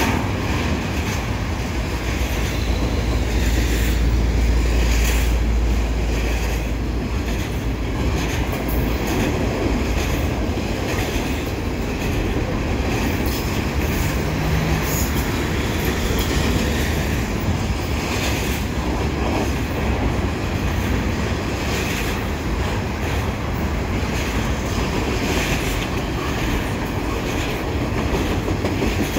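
Double-stack container cars of a freight train rolling steadily past, wheels clacking over the rail joints over a continuous rumble; the low rumble is heaviest a few seconds in.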